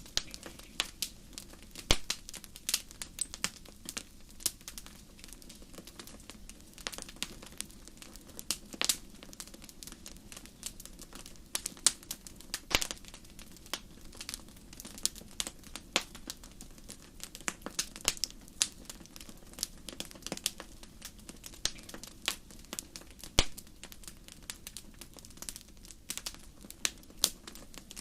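Wood campfire crackling: irregular sharp snaps and pops, a few of them loud, over a steady low rush of burning.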